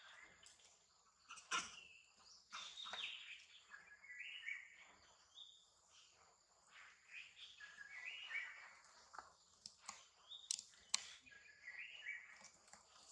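A bird singing a short phrase of stepped notes, repeated about every four seconds. A few sharp clicks, two close together near the end, and a faint steady high tone sit behind it.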